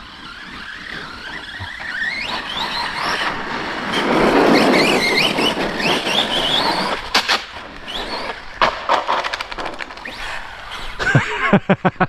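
Electric RC stunt trucks driven hard, their brushless motors whining up and down in pitch as they accelerate and let off. A loud gritty rush of tyres on dirt comes about four seconds in, then a run of knocks and clatters from the trucks bouncing and landing.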